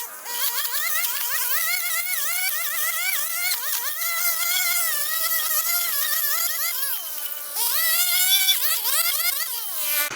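A small motor whining at a high pitch, its pitch wavering up and down with two short dips.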